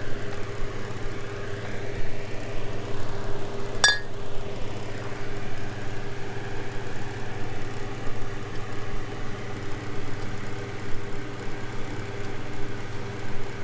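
Steady low mechanical hum from the workshop, with a single sharp metal clink that rings briefly about four seconds in as outboard lower-unit parts are handled.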